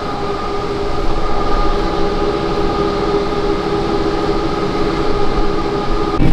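Cable car running: a steady mechanical hum with several steady whining tones layered on top, which break off abruptly near the end.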